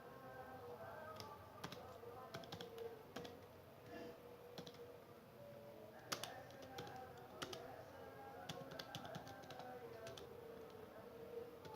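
Computer keyboard typing: faint, irregular keystroke clicks as a database query is typed, over quiet background music.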